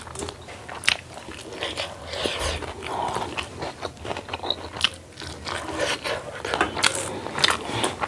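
Close-up chewing and crunching of food, with irregular sharp crunches and clicks throughout.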